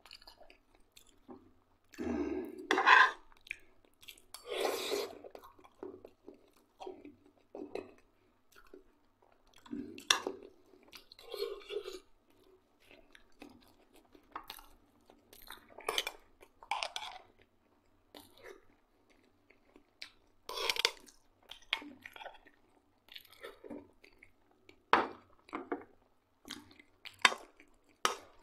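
A man chewing and eating fried potatoes and black rye bread, in irregular mouthfuls, the loudest about three seconds in.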